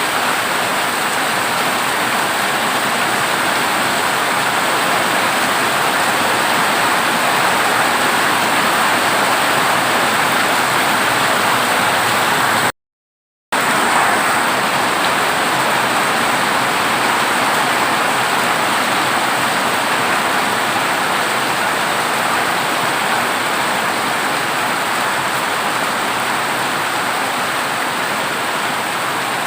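Heavy rain falling steadily on a corrugated zinc roof, a dense even hiss. It cuts out completely for under a second about halfway through, then resumes unchanged.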